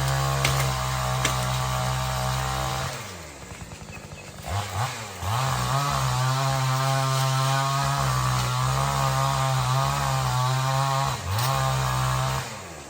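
Chainsaw running at full throttle, let back to idle about three seconds in. It is blipped, then revved up to full again and held steady for about six seconds, with a brief dip and recovery near the end before easing off to idle.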